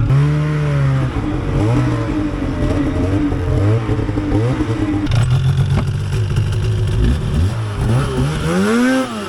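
Snowmobile engines running and revving, the pitch rising and falling again and again, with one long rev up and back down near the end.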